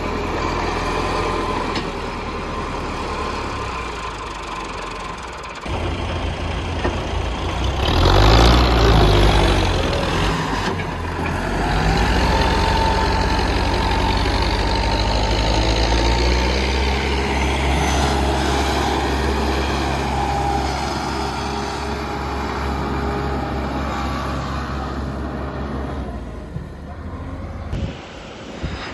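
Massey Ferguson 385 tractor's four-cylinder diesel engine running under load while stuck in deep mud, revving up and dropping back about eight seconds in, then held at higher throttle from about twelve seconds.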